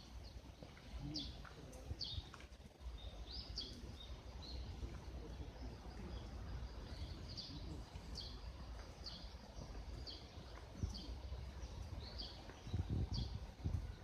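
Birds chirping outdoors: short, high calls that sweep downward, coming about once a second, with a low rumble underneath.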